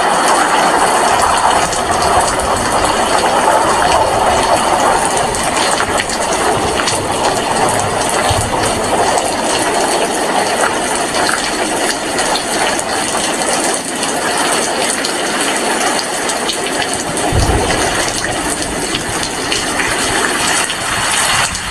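Heavy rain falling steadily, a dense even hiss with many small drop ticks, and a brief low thump about seventeen seconds in.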